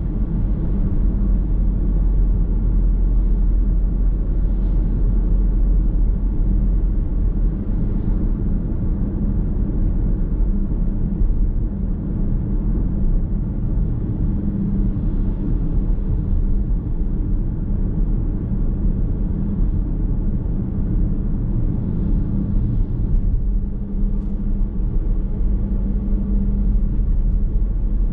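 Steady low road rumble and tyre noise inside a moving car's cabin.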